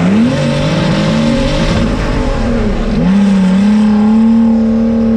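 Turbocharged BMW engine of a boat-bodied drift car accelerating hard down a drag strip. The pitch climbs and drops several times through the gearshifts, then holds one steady high note for the last couple of seconds.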